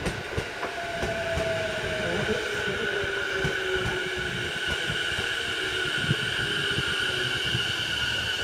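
Ome Line electric commuter train braking into the station: its motor whine falls slowly in pitch as it slows, over steady high-pitched tones and light knocks from the wheels.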